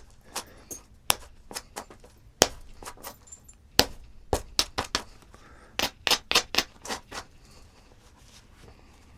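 Flintknapping: a stone being struck again and again, giving an irregular string of about twenty sharp clicks to knock off its chalky outer rind. The clicks stop about seven seconds in.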